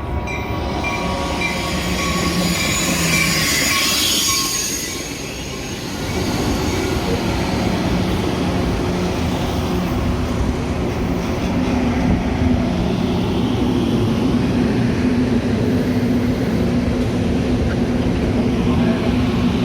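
Metra commuter train running on the rails, with high-pitched squealing noise and thin steady tones swelling over the first few seconds, then a steady rumble with a low hum after a brief dip.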